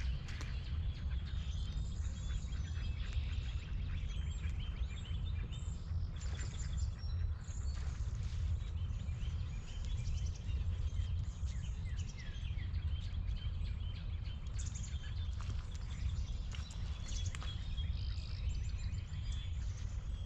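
Many small birds chirping and calling in a marsh, short high notes scattered throughout, over a steady low rumble.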